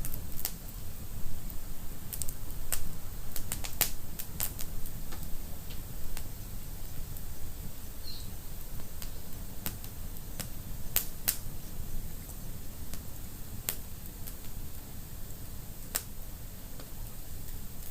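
Fireplace fire crackling: irregular sharp pops and snaps, thickest in the first few seconds, over a steady low rumble of the flames.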